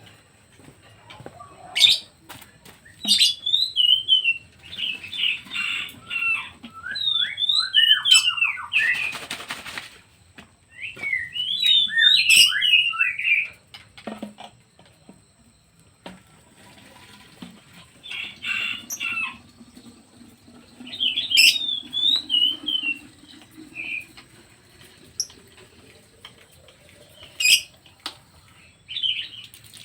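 Pet songbirds chirping in short bursts of quick sweeping notes, separated by pauses, with a brief rushing noise about nine seconds in and scattered light clicks.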